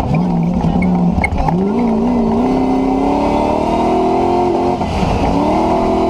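Land Rover's 4.6-litre V8 engine under hard acceleration over a steady low rumble. After a short dip about a second in, the engine note climbs steadily for about three seconds, falls away near the end, then starts climbing again.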